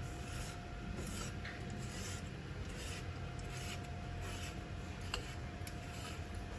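Light rubbing and scraping of parts being handled, over a steady low hum, with a single sharp click about five seconds in.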